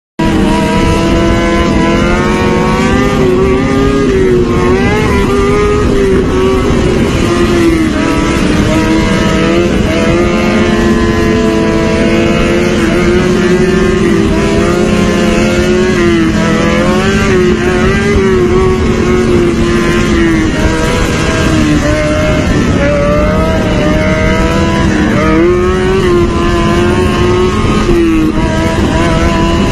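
Motorcycle engine running at high revs, its pitch rising and falling gently and continuously as the throttle is worked.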